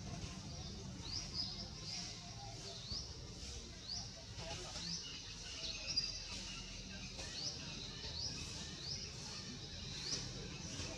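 Small birds chirping over and over in the surrounding trees: short, high, rising chirps about two a second.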